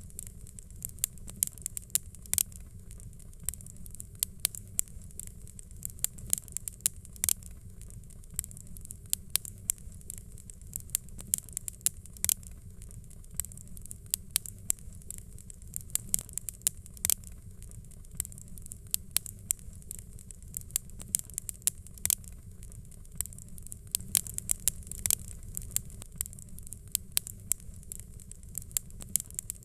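Wood fire crackling: irregular sharp pops and snaps, several a second, over a steady low rumble and hiss.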